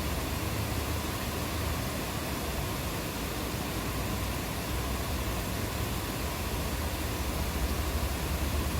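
Steady rainfall, an even hiss with a low rumble underneath, unchanging throughout.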